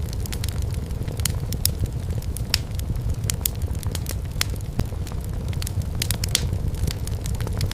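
Firewood burning in a fireplace, crackling with frequent irregular sharp snaps and pops over a steady low rumble.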